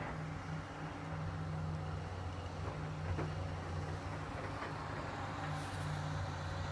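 Excavator's diesel engine running steadily at a low hum, with one light click about three seconds in.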